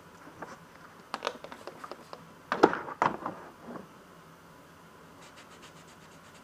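Clicks and knocks of hands and tools working a wheel on a tire balancer, loudest about halfway through, then a quick run of faint ticks near the end.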